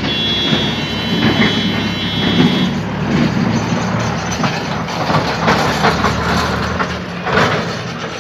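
Train running past a level crossing: a steady low engine drone with a thin high whine over it for the first three seconds. The drone drops away about seven seconds in.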